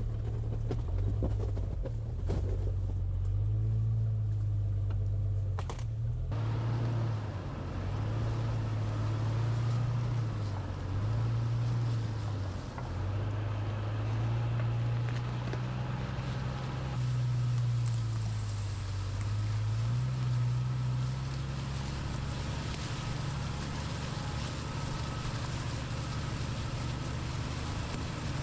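1999 Jeep Cherokee XJ engine droning as it drives a dirt trail, its pitch rising and falling with the throttle. A broad hiss of tyre and road noise steps up abruptly about six seconds in.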